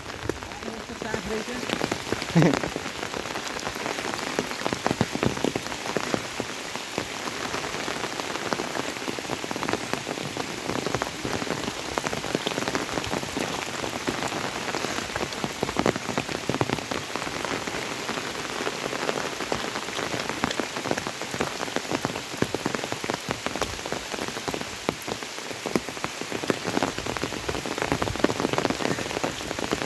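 Rain falling steadily, a dense hiss made of countless separate drop hits close by, with one louder knock about two seconds in.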